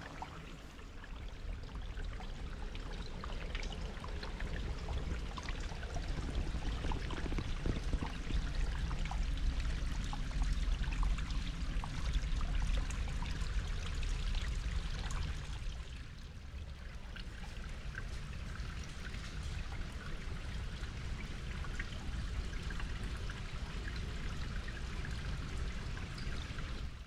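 Running water trickling and splashing, with many small drips and a low rumble underneath. It gets a little quieter about two-thirds of the way through.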